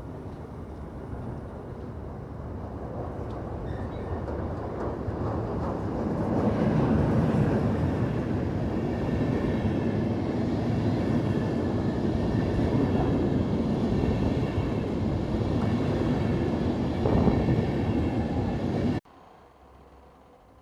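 Freight train carrying cars rolling past, a steady rumble of wheels on rail that grows louder over the first several seconds and then holds, before cutting off suddenly about a second and a half before the end.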